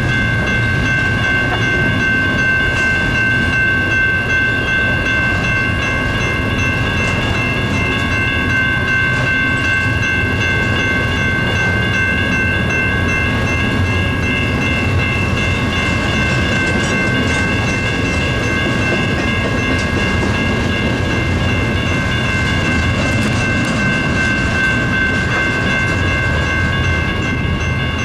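Union Pacific intermodal freight train rolling past, its wheels rumbling and clicking over the rail joints, with a steady high-pitched ringing tone held over it throughout.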